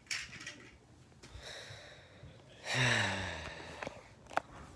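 A child's breathy sigh, falling in pitch, about three seconds in, after softer breaths; two sharp clicks follow near the end.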